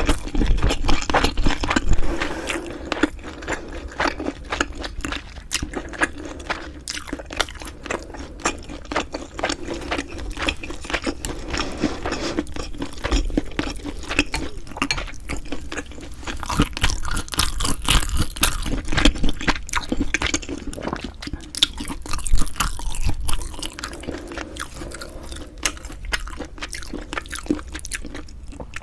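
Close-miked chewing and mouth sounds of someone eating, a dense run of small wet clicks and crunches that grows busier and louder in the second half.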